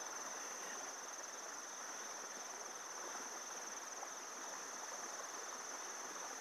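Steady high-pitched insect chorus: a continuous trill from crickets or similar insects in the grass.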